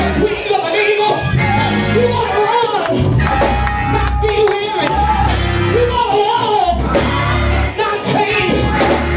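Live gospel music from a church band with singing: heavy bass notes changing about once a second, cymbal hits, and a voice sliding up and down over it.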